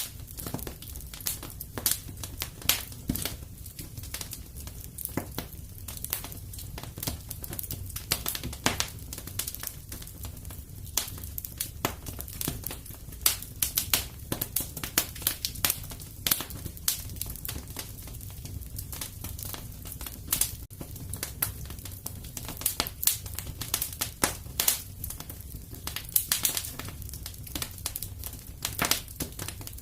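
Wood fire burning in a fireplace: irregular crackles and sharp pops, several a second, over a low steady rumble of the flames.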